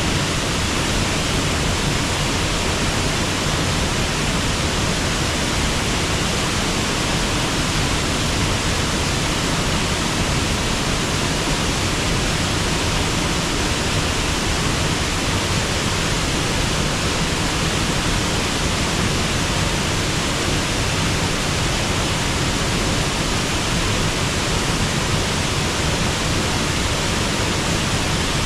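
Waterfall and river water rushing in a steady, even roar that does not change.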